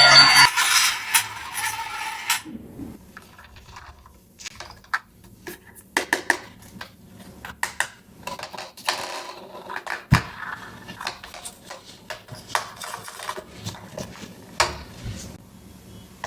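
Scattered light clicks and taps of small plastic toy pieces and packaging being handled, irregular with short pauses. Background music stops about two seconds in.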